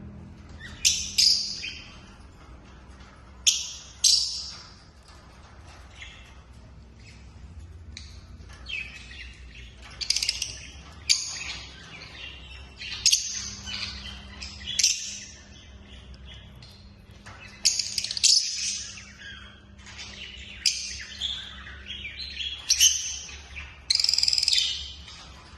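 Lovebirds chirping: short, shrill calls, often in quick pairs, every second or two.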